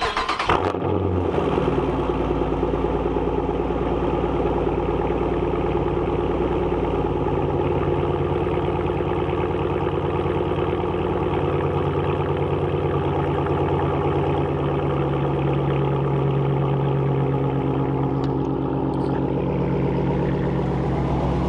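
A car engine starting, with a short loud burst right at the beginning as it fires, then idling steadily.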